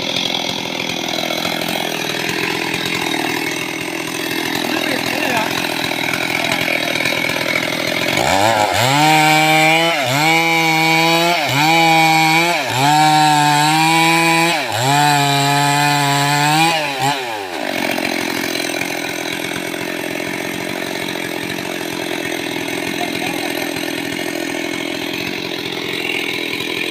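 Stihl chainsaw running loud while cutting mahogany. About a third of the way in, its engine note comes up strongly, dips and recovers about five times over some nine seconds, then falls back to the steadier running sound.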